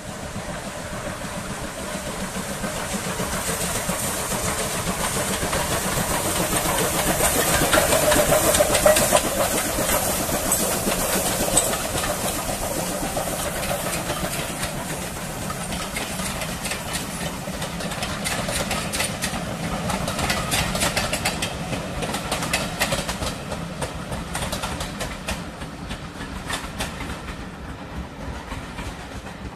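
Passing train, coming up louder to a peak about a third of the way through and then slowly fading as it goes by. In the second half its wheels click rhythmically over the rail joints.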